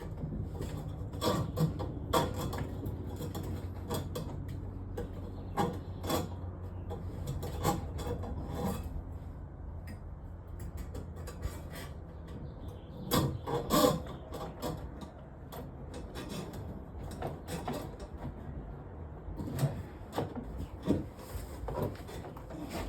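Drain snake cable being worked into a clogged kitchen sink drain pipe: irregular knocks, clicks and scraping against the pipe, over a steady low hum.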